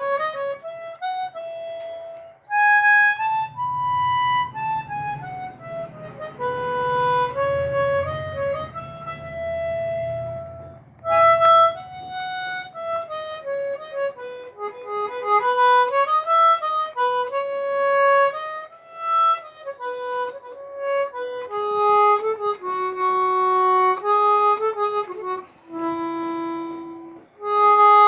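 Hohner CX12 chromatic harmonica in E flat, freshly restored, playing a slow Bengali folk melody solo. It plays a single line of held notes, sliding between some of them, with short breaths between phrases.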